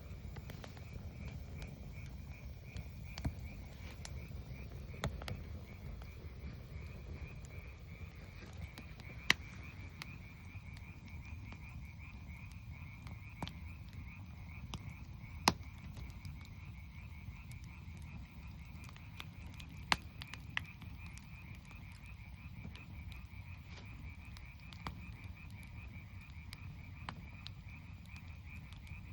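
A steady chorus of frogs trilling, a fast pulsing call that never stops, with the campfire's wood cracking and popping now and then; a few sharp pops are the loudest sounds.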